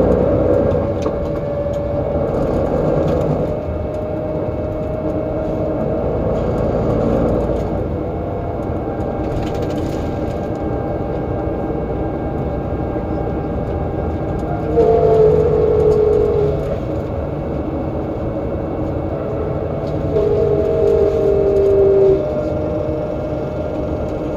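MAN Lion's Coach diesel bus under way: engine and gearbox running with a whine that drifts in pitch through the gear changes and retarder braking. Two louder spells of a slightly falling whine come a little past the middle and again near the end.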